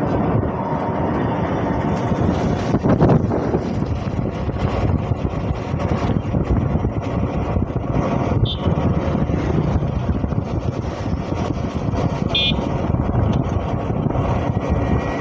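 Steady vehicle and road noise, with engine sound running throughout. Two brief high-pitched sounds come in about eight and twelve seconds in.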